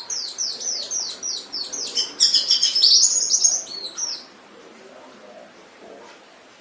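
Domestic canary singing: a run of quick repeated falling whistled notes, about four or five a second, then a louder fast trill. The song stops about four seconds in.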